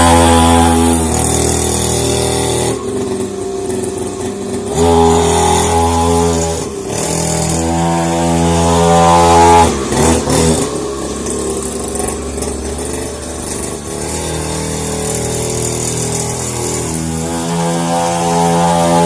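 50cc two-stroke dirt bike engine running, its pitch and loudness rising and falling several times as it is revved and eased back.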